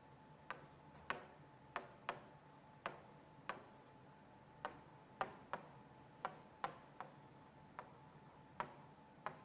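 Faint, sharp ticks, about one or two a second and unevenly spaced, over a faint steady hum.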